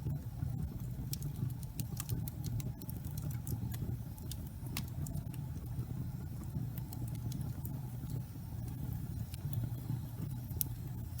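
Wood fire burning in a fireplace: a steady low rush of flame with frequent sharp crackles and pops from the burning wood.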